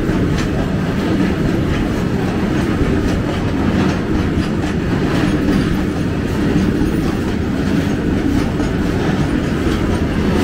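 Long freight train rolling slowly past, its wagons' wheels clacking over the rail joints with a steady rumble.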